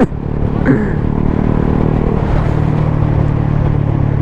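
On-board sound of a Suzuki GSX-S 125's single-cylinder engine through a Mivv GP Pro aftermarket exhaust, running at a steady cruising speed with wind rush. The engine note grows a little stronger about two seconds in.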